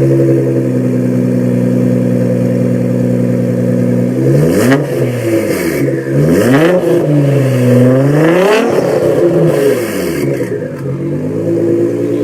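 Nissan GT-R R35's twin-turbo V6 through a loud aftermarket exhaust, holding a steady drone for about four seconds, then revved three times, the last rev the highest and ending in a sharp crack, before settling back to a steady drone.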